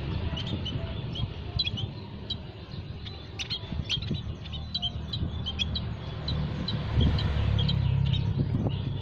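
Small aviary songbirds such as munias chirping: many short, high, quick chirps in rapid succession, over a low rumble that gets louder about seven seconds in.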